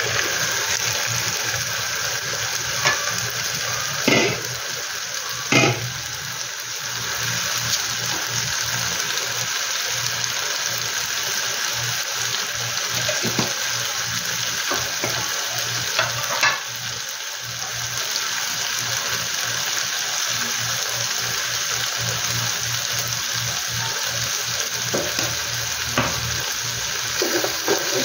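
Tomatoes, bell peppers and onions sizzling steadily in a frying pan, with a few sharp knocks against the pan.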